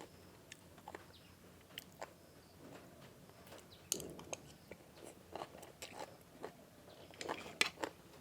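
A person chewing and crunching food close to the microphone, with sharp, crisp crunches that come thicker from about four seconds in and again near the end.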